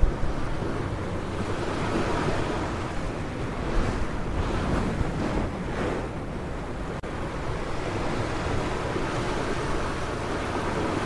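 Ocean waves breaking on a beach: a steady wash of surf that swells up in the middle, with wind on the microphone.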